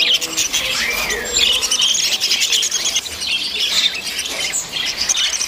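Many caged birds chirping and calling at once: a dense, continuous chorus of overlapping high chirps, trills and short gliding calls, with no single bird standing out.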